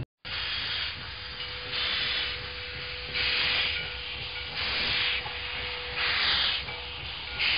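Steam locomotive puffing slowly: bursts of steam hiss about every second and a half, over a faint steady tone.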